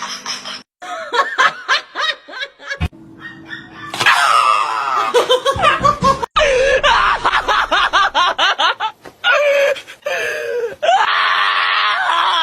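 People laughing over background music, in short segments broken by abrupt cuts.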